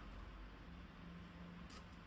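Near silence: faint kitchen room tone with a low hum and one light tick near the end.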